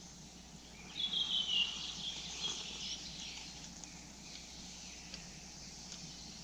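A songbird singing one high, slightly descending phrase about two seconds long, starting about a second in, over faint forest background.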